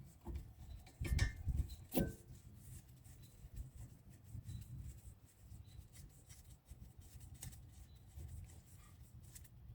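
Faint metal clicks and rubbing of a socket wrench working a brake caliper bolt, with two sharper knocks about one and two seconds in.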